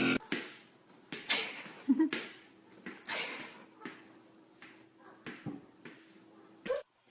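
A household pet in a small room: scattered knocks and rustles, with a short low animal call about two seconds in and a brief rising one near the end.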